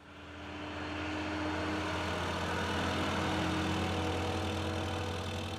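Vehicle engine running steadily with a low hum, swelling in over the first second and easing off slightly near the end.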